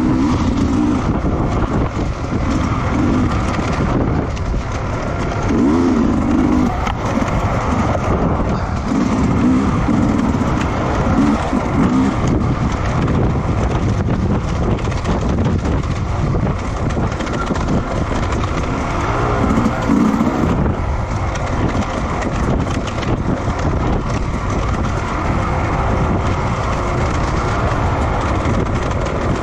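Racing motorcycle engines running hard on a circuit, their pitch rising and falling several times over a steady rush of noise.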